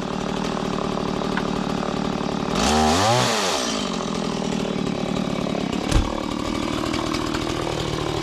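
Chainsaw running while cutting a wooden post. The engine revs up and falls back about three seconds in, and there is a sharp knock near six seconds.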